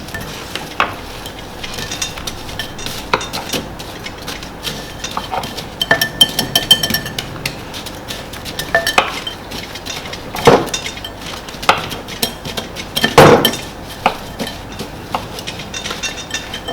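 Metal whisk and utensils clinking and scraping against a mixing bowl in uneven strokes, with a few louder knocks about ten and thirteen seconds in.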